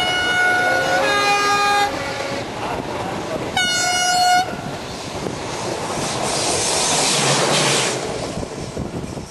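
Steam locomotive whistle of the restored BDZ 46.03 sounding a long chord-like blast that shifts pitch partway and ends about two seconds in, then a short second blast about four seconds in. A rushing hiss follows in the second half.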